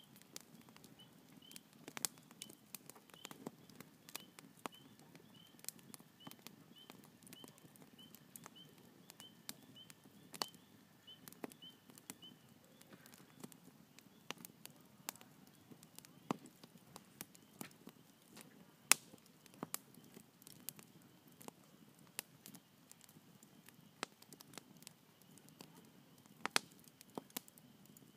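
Wood campfire crackling, with irregular sharp pops and snaps of varying loudness over a faint low hiss. A repeated high chirp, about two a second, sounds through roughly the first twelve seconds.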